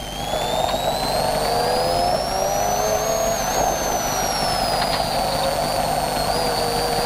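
BMW M3 rally car's engine heard from inside the cabin, pulling hard: the revs climb for about three seconds, dip briefly, ease off, then climb again near the end, with a high whine rising and falling along with it.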